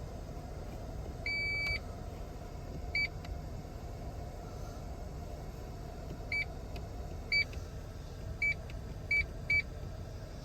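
Electronic confirmation beeps from the Toyota Tundra's cabin controls as buttons are pressed: seven beeps at one high pitch. The first, about a second in, is held for about half a second. The other six are short and spaced irregularly, with the last three close together near the end. Underneath runs a steady low hum.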